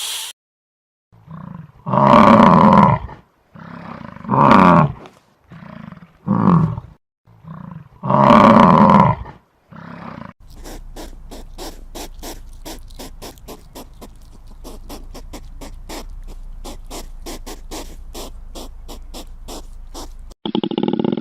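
A large animal roaring several times, each roar loud and a second or so long, then an even, rapid pulsing sound at about four pulses a second for most of the second half, stopping shortly before the end.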